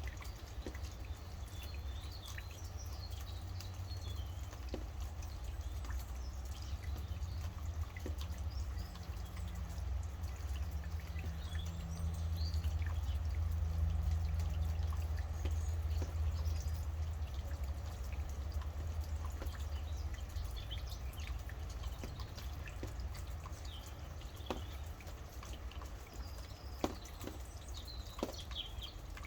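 Rain dripping, with sharp individual drops and birds calling now and then in short high chirps, over a steady low rumble that grows louder in the middle.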